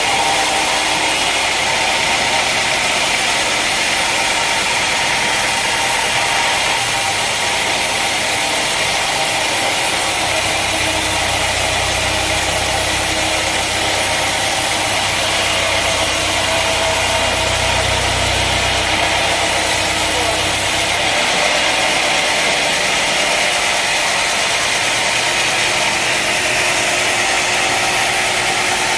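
Sawmill machinery running steadily with an engine-like drone. A low hum joins for about ten seconds in the middle.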